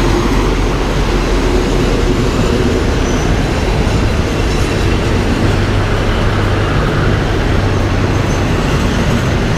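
Diesel railcar express train rolling past close alongside the platform as it pulls into the station: a steady loud rumble of wheels on rail and running gear. Through the middle a low engine hum rises above the rumble.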